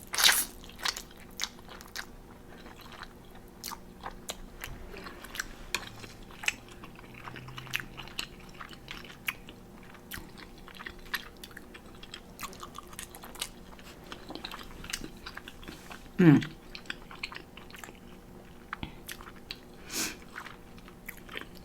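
Close-miked wet chewing of spicy instant noodles, with many small mouth clicks and smacks. A brief pitched vocal sound from the eater comes about sixteen seconds in.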